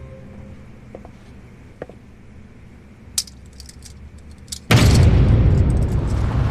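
A few faint clicks and taps, then a loud steady rumbling rush of noise that cuts in suddenly about three-quarters of the way in.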